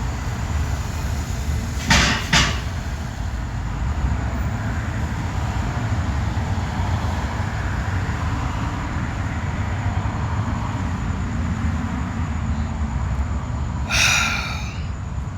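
Steady low rumble with two sharp clicks about two seconds in and a short hiss near the end.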